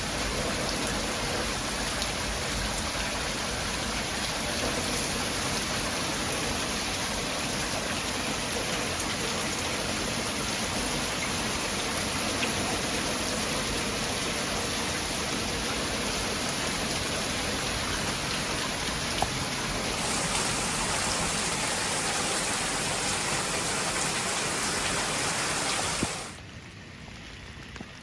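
Steady heavy rain, a dense even hiss of falling water. It drops away sharply about 26 seconds in, leaving fainter rain.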